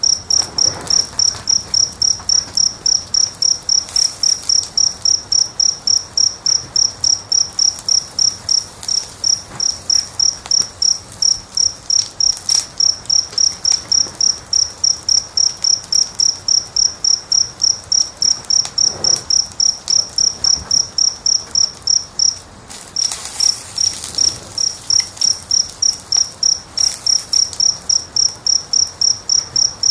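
A cricket chirping steadily in a fast, even rhythm of about three high chirps a second, pausing briefly about three quarters of the way through.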